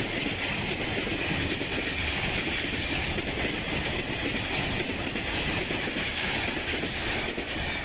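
Egyptian Railways passenger coaches rolling past close by, the wheels rumbling steadily and clacking over the rail joints.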